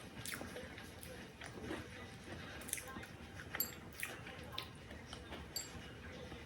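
A person chewing and biting food, with irregular short crunches every second or so.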